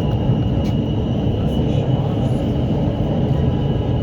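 Lahore Orange Line electric metro train running between stations, heard inside the carriage: a steady rumble with a thin, steady high whine over it.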